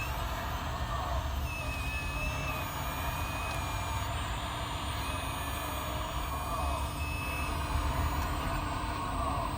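1/14-scale RC hydraulic excavator running: a whine from its hydraulic pump that comes and goes and shifts in pitch as the controls are worked, over a steady low rumble.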